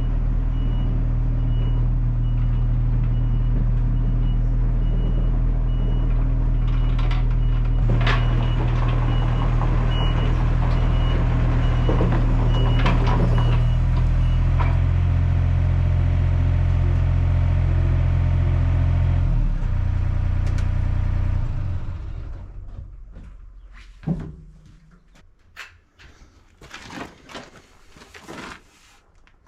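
Craftsman riding lawn mower engine running steadily, its note changing partway through. It is shut off and runs down about twenty seconds in, leaving a few light knocks and clicks.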